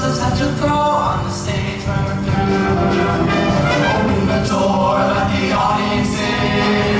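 Show choir singing over its live band accompaniment, with a steady, full ensemble sound.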